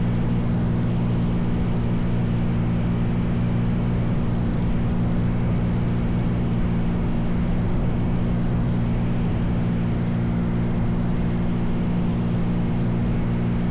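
Cessna 182's piston engine and propeller droning steadily in cruise flight. The low, even hum holds constant throughout, with no change in power.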